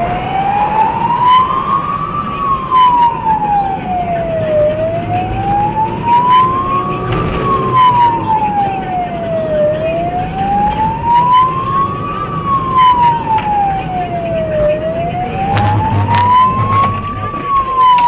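Emergency vehicle siren wailing, its pitch slowly rising and falling about every five seconds, over a low rumble with a few scattered clicks.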